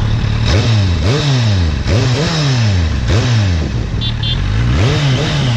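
Kawasaki Z800's inline-four engine idling and blipped four times, each rev rising sharply and falling back to idle.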